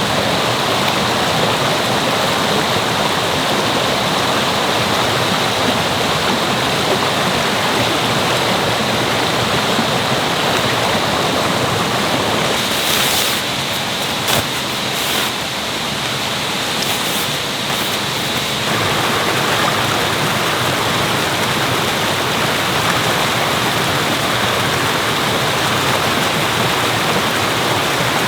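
Mountain stream water rushing steadily, with a few short sharp knocks or clicks partway through.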